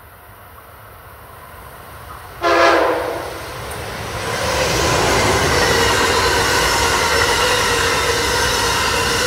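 Amtrak Acela high-speed trainset approaching and passing at speed: a short horn blast about two and a half seconds in, then the steady rush of the train going by, growing louder until it is alongside.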